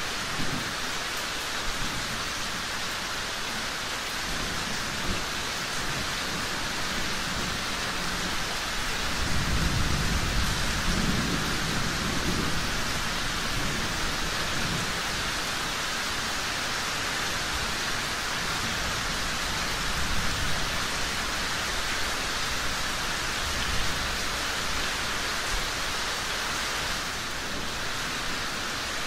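Steady rain falling, with a low rumble of thunder swelling and fading about nine to thirteen seconds in.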